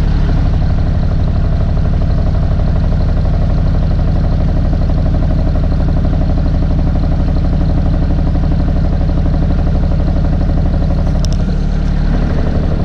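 Snowblower engine running steadily and loud, close to the microphone, with a slight change in its note near the end.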